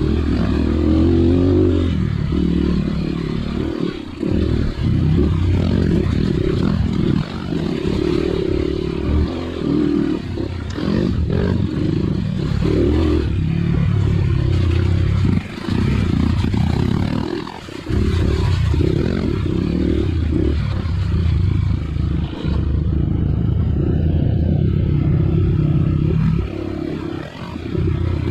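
Off-road dirt bike engine running under throttle on a trail, the revs rising and falling, with brief dips where the throttle is closed, about 4, 15 and 18 seconds in.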